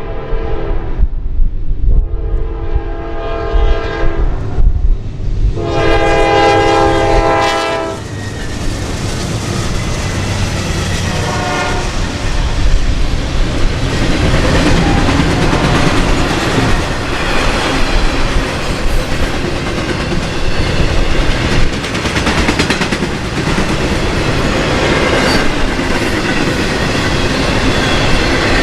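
A locomotive horn sounds several blasts, the longest and loudest about six to eight seconds in, and then a shorter, fainter one. The train then passes close by: a steady loud rumble of rolling wheels with rail-joint clickety-clack.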